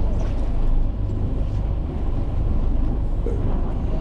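Steady low rumble of a boat under way or idling at sea.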